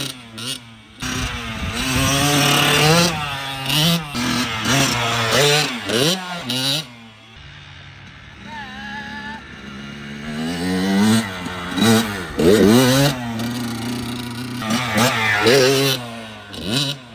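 Small dirt bike engine revving up and down in quick surges as it is ridden. It is loud as it comes close, fades for a few seconds midway, then is loud again.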